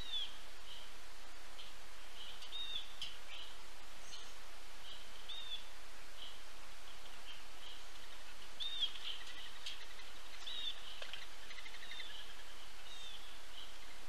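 Birds chirping: short high chirps and hooked whistled notes repeating every second or so, with a brief buzzy trill near the end, over a steady background hiss.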